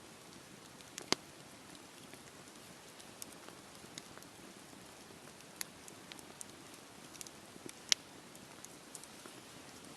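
Wood fire crackling in a fireplace: a soft steady hiss with irregular sharp pops and snaps, two louder pops about a second in and near the eight-second mark.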